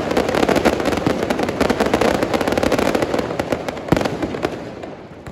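Fireworks show barrage: a dense, rapid run of aerial shell bursts and crackle that thins out after about three seconds. One louder bang comes about four seconds in, then the sound fades.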